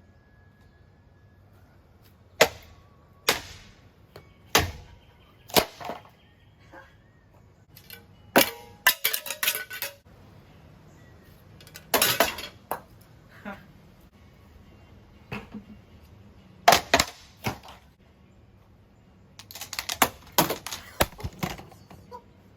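Spinning ceiling fan blades striking objects: a dozen or so sharp cracks and clatters at uneven intervals, with quick rattling flurries near the middle and again near the end as pieces break.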